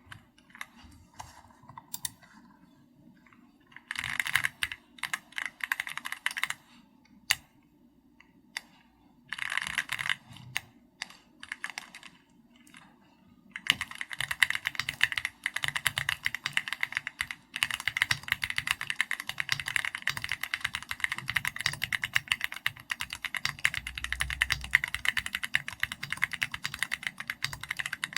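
Typing on a mechanical keyboard: an SPM AL66B with Keychron Red linear switches and XVX keycaps. A few scattered keystrokes and two short bursts of typing come first, then steady fast typing from about halfway through.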